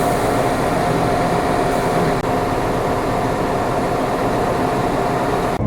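Loud, steady, machine-like rushing noise with one held hum. It cuts in abruptly and stops just as suddenly near the end.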